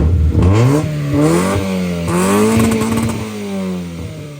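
Honda Civic EF's four-cylinder engine revving up from idle, its pitch climbing for about two and a half seconds and then falling back.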